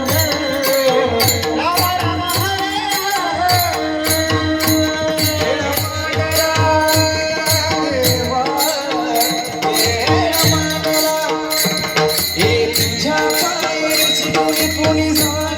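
Devotional singing in the Warkari bhajan style: a solo voice carrying a gliding melody over percussion that keeps a steady beat.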